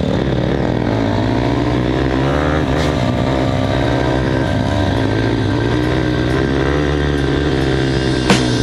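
Motocross dirt bike engines revving, their pitch rising and falling unevenly over a steady low drone.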